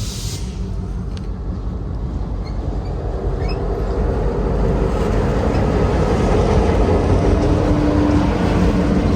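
A lone CSX GP38-3 diesel locomotive, with its EMD 16-cylinder 645 engine, running as it approaches, growing steadily louder.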